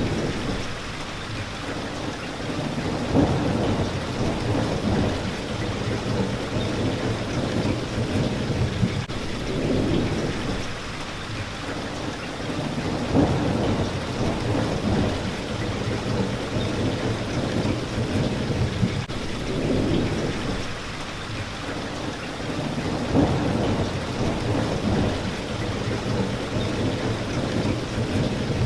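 Steady rain hitting a window, with low rumbles of thunder swelling and fading every few seconds and a few sharp taps along the way.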